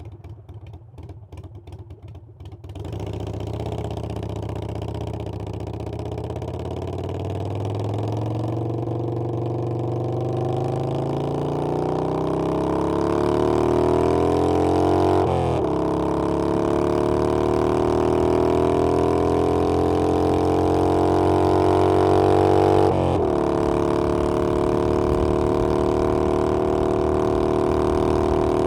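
Harley-Davidson Iron 883's air-cooled V-twin engine ticks over, then is opened up about three seconds in. Its note rises steadily under acceleration, falls sharply at two upshifts about halfway through and near the end, then holds steady at cruising speed.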